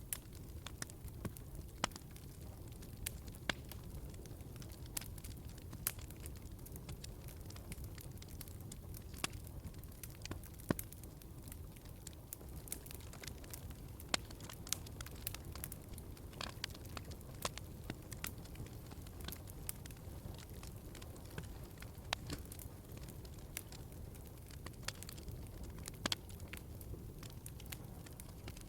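Wood fire crackling in a fireplace: a steady low rush of flame with sharp pops and snaps at irregular intervals, a few a second.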